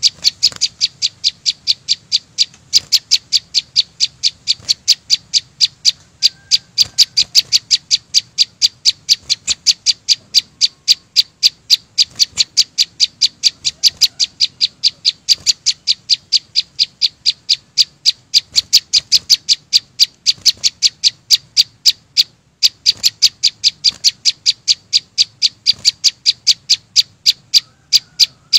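A small green songbird ('chim sâu xanh') calling loudly in a fast, very even series of sharp high chips, about three or four a second, broken once briefly about three-quarters of the way through.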